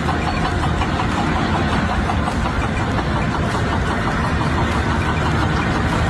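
An engine running steadily and loudly, a dense even mechanical rumble.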